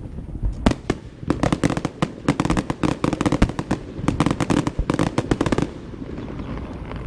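Fireworks going off in a rapid barrage of sharp bangs and cracks, dense from about half a second in, thinning out to a few scattered cracks over the last second or so.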